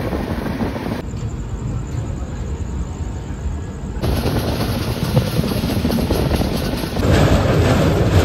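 Passenger train running at speed, heard from an open coach doorway: a steady rumble of wheels on the track mixed with wind. It comes in short clips that cut abruptly about one, four and seven seconds in, and is louder after the last cut.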